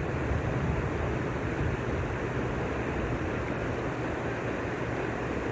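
Steady rushing of flash-flood water, a continuous even roar with a heavy low rumble.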